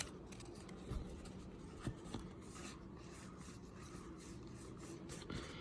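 Faint rubbing and sliding of trading cards being handled and flipped through by hand, with a few light taps.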